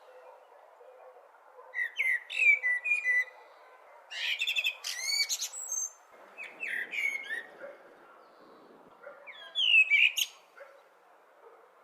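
Blackbird singing: four short phrases, each a few fluty gliding notes ending in a high twitter, with pauses of a second or two between them.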